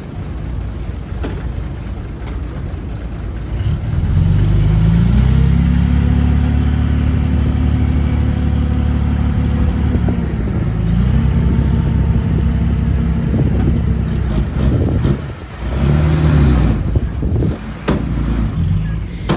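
Heavy diesel engine of earthmoving machinery revving up about four seconds in and running hard under load, easing off briefly near the middle and again near the end.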